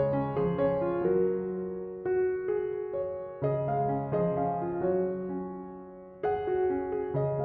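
Slow, gentle piano music: single notes and soft chords struck and left to ring over held bass notes, with new chords coming every few seconds.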